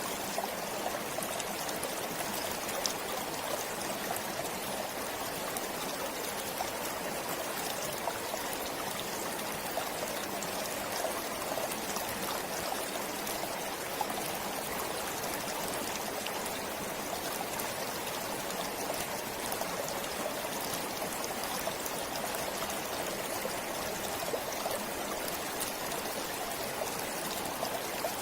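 A forest stream flowing steadily, an even rush of running water with many small ticks and splashes through it.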